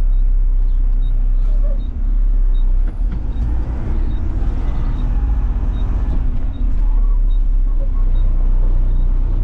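Front-load garbage truck's diesel engine running steadily while the truck maneuvers, with a faint regular tick about every half-second.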